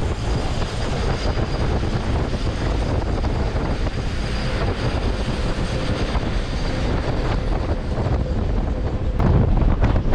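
Suburban electric multiple-unit train running at speed: a steady rumble and rush of wheels on track, with wind noise on the microphone. It grows louder near the end.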